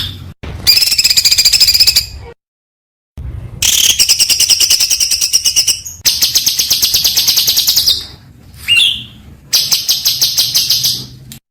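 Songbird singing fast, high-pitched trilled bursts, each one to two seconds long, cut off abruptly between bursts. A short rising whistle comes just before the last burst.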